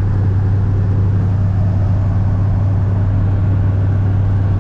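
Steady low drone of a car driving at an even speed, with a constant deep hum under the engine and road noise.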